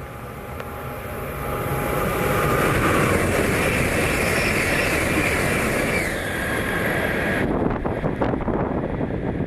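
Shinkansen bullet train passing at speed in heavy rain. A rushing noise builds over about two seconds and holds loud with a high whine in it. About three-quarters of the way through, the high hiss cuts off suddenly as the train clears, leaving a lower rumble.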